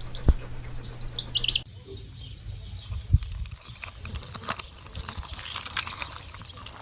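Birds chirping in quick high trills, cut off suddenly about a second and a half in. Scattered sharp clicks and taps follow, with faint chirps among them.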